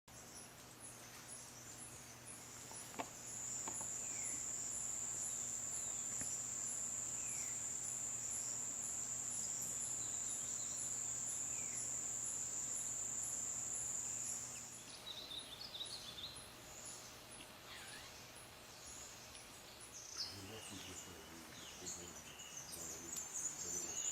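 An insect's continuous high-pitched trill, starting a few seconds in and stopping about fourteen seconds in. Faint bird chirps are heard over it, and scattered bird calls follow after it stops.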